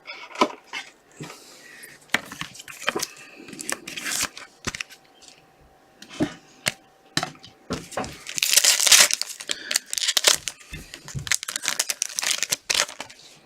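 Trading-card pack wrapper crinkling and tearing open, with cards handled, in a string of crackles and clicks; the loudest stretch of crinkling comes about eight to nine and a half seconds in.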